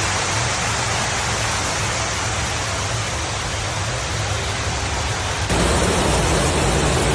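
Torrential rain pouring down as a steady, dense hiss. About five and a half seconds in it cuts abruptly to another recording of the downpour with more low rumble.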